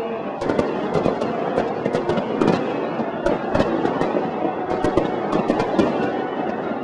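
Fireworks display: many sharp bangs and crackling pops of bursting aerial shells in quick succession, over a steady background din.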